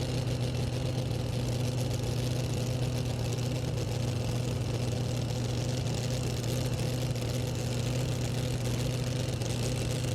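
Super modified two-wheel-drive pulling truck's engine idling steadily, hooked to the sled before the pull, with an even low drone and no revving.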